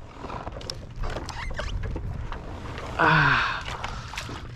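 Scattered clicks, knocks and splashes of a summer flounder being landed and handled on a kayak, over a low wind rumble. About three seconds in there is a short exclamation with a falling pitch.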